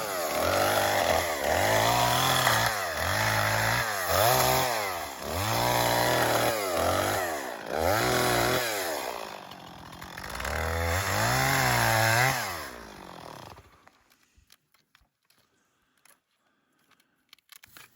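Gas chainsaw revving up and easing off again and again, with its pitch rising and falling several times. It stops about three-quarters of the way through, leaving only faint clicks.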